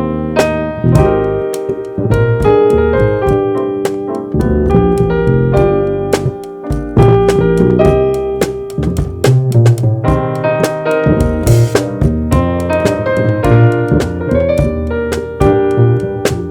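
Live jazz trio playing: keyboard carrying chords and melody over bass and drum kit, with many short sharp drum and cymbal strikes.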